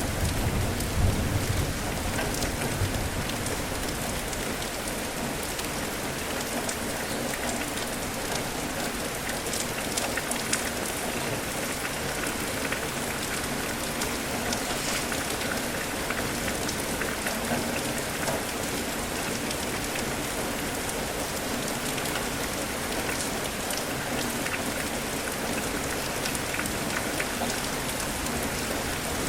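Steady rain with scattered drops ticking on a surface. A low rumble of thunder in the first couple of seconds fades away.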